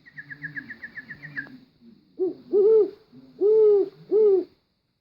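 Owl hooting: four low hoots, the second and third drawn out longer, after a quick trill of about eight short high chirps in the first second and a half.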